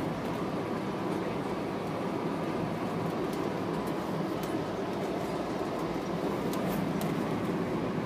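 Steady running rumble of a VIA Rail passenger train, heard from inside the passenger car, with a few light clicks.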